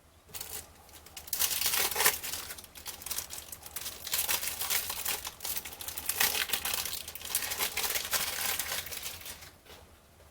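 Cellophane wrapper of a 1989 Fleer baseball card cello pack being torn open and crinkled by hand. The crinkling comes in bursts from about half a second in and stops shortly before the end.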